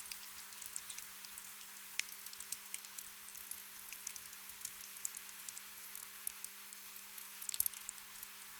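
Gentle rain ambience: a steady soft hiss with scattered raindrop ticks and a quick flurry of drops near the end.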